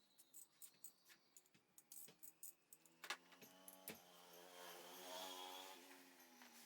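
Faint, sharp metallic clicks and taps, like tools or small parts being handled. A faint pitched hum comes in about three seconds in and fades near the end.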